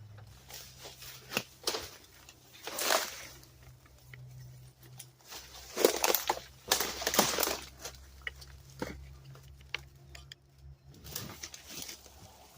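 Scattered knocks and scuffs of work on the truck's engine, over a low steady hum that stops near the end.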